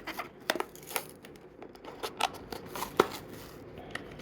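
Toy train packaging being opened by hand: an irregular run of sharp clicks, snips and crackles of card and plastic, the loudest about three seconds in.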